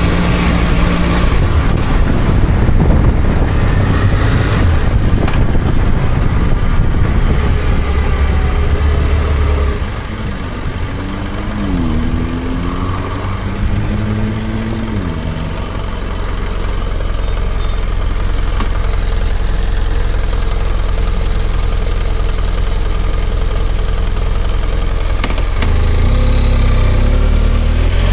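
BMW F800GS motorcycle's parallel-twin engine running while riding, with wind and road noise. About halfway through, the revs climb and drop several times in quick succession, as through gear changes, then settle into a steady cruise.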